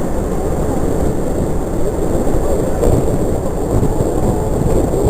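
Steady, loud low roar of Niagara's falls at close range from the tour boat at their base, a continuous rumble of crashing water and spray without breaks.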